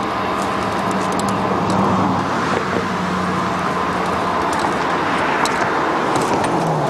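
Steady vehicle noise with a low engine hum and scattered faint high clicks.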